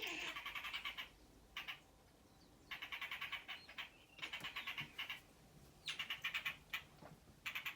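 An unidentified songbird calling outside in repeated bouts of rapid, evenly spaced notes, each bout lasting about a second, with short pauses between.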